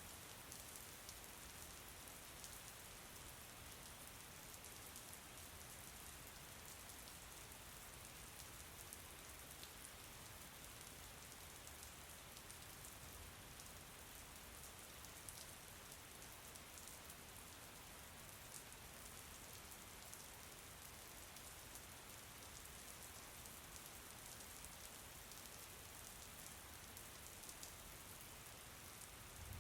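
Steady, faint rain falling: an even hiss with fine patter of drops.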